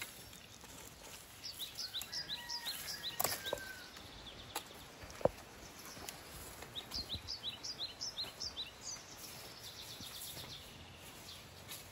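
A small bird singing: two runs of quick, high, down-slurred chirps, about five a second, a few seconds apart, over faint outdoor background noise. A single sharp click near the middle.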